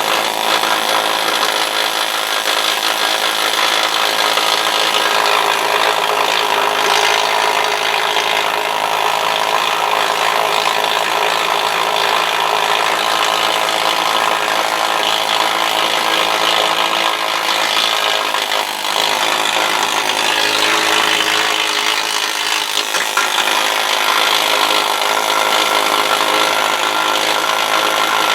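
Power grinder grinding rust off a steel car door, running steadily under load with a constant motor whine.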